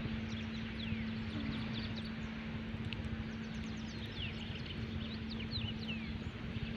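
Small birds chirping: many short, quick, falling chirps scattered throughout. Under them is a low rumble and a steady low hum.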